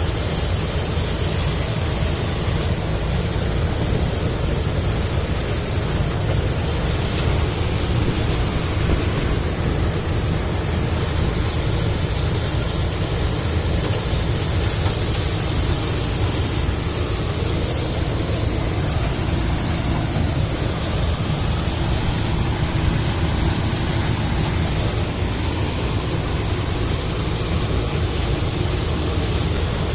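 Mahindra tractor's diesel engine running steadily, with a constant low-pitched drone and a hissing noise over it that grows brighter for a few seconds about a third of the way in.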